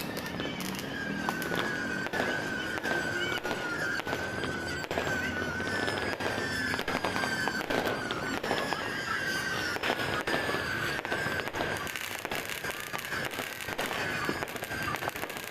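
New Year's fireworks and firecrackers going off continuously in a dense, unbroken crackle of many pops. A high whistling tone slides slowly down in pitch through the whole stretch.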